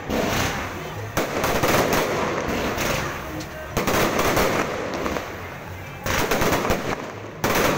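Aerial firework shells bursting overhead: about six sharp bangs, each trailing off in a crackling, echoing tail over the following second or two.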